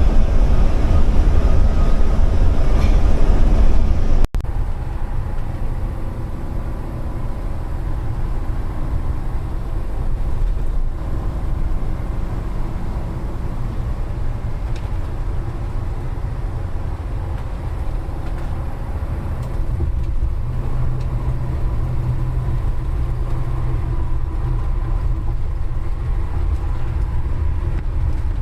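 Steady rumble of a vehicle being driven at road speed, heavy in the low end with a faint engine hum. It cuts off abruptly about four seconds in and carries on a little quieter.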